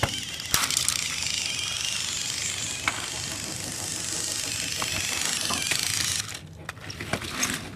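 Small battery toy motor and plastic gears whirring steadily with a few clicks and rattles, cutting off suddenly about six seconds in.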